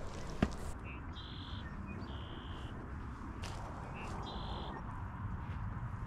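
Two short runs of high whistled bird calls, a few notes each, over a steady low outdoor background, with one sharp click about half a second in.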